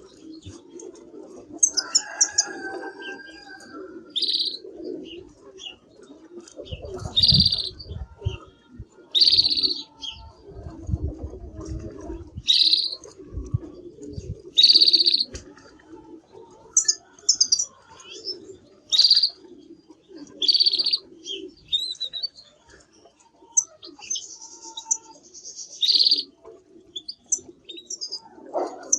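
Canary chirping in short, sharp, high notes that repeat about every one to two seconds, broken now and then by brief higher trills.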